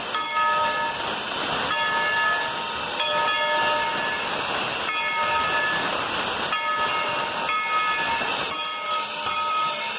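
Steam locomotive No. 190, a 1943 Baldwin narrow-gauge engine, hissing steam while its bell rings over and over, a clear ringing tone about every second or so.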